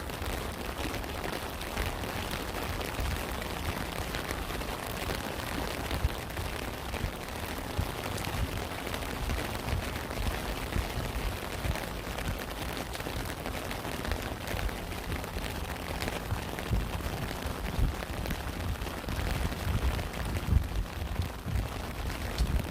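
Steady rain falling, a dense patter of drops with now and then a louder drop, over a low rumble.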